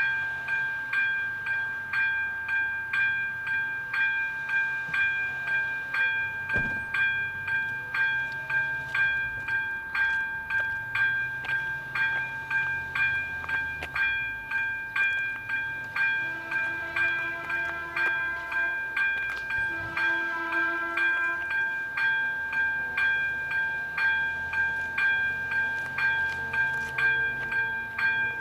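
Electric warning bell of a Czech level crossing (AŽD 97 signals) ringing as the crossing activates, starting suddenly and then striking steadily at about one and a half strokes a second, each stroke ringing on.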